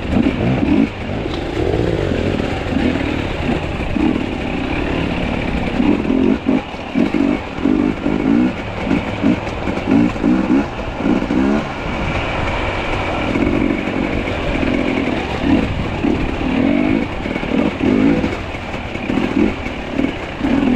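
Two-stroke enduro dirt bike engine revving in short repeated bursts as the throttle is worked on and off over the trail.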